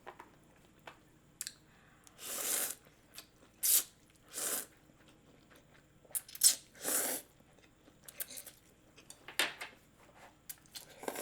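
Close-miked eating of spicy miso ramen: about six short slurps or sucks, each around half a second, with small chewing clicks in between.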